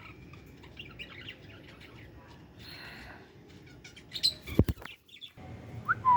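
Indian ringneck parrots chirping intermittently with short calls, broken by a few sharp knocks about two-thirds of the way through and a brief rising call at the end.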